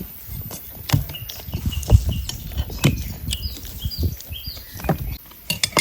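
Cutlery and dishes clinking and knocking irregularly during a meal, with short high chirps repeating over them.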